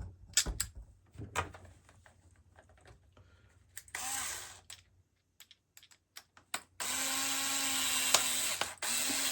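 Small clicks and knocks of screws and parts being handled, then a power screwdriver running in short steady runs: a brief one about four seconds in and a longer one of about two seconds near the end, driving screws back into the shower valve unit's bracket.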